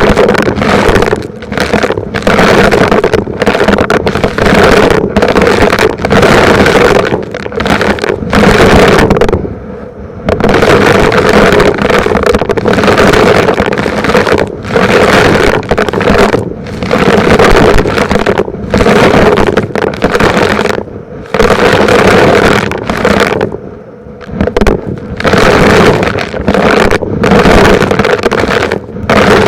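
Vacuum cleaner running loud and steady with a constant motor hum, dipping briefly every second or two as it is pushed and pulled in strokes over the floor.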